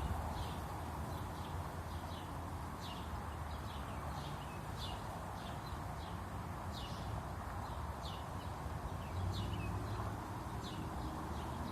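A bird repeating a short, high chirp that drops in pitch, about twice a second, over a low steady rumble.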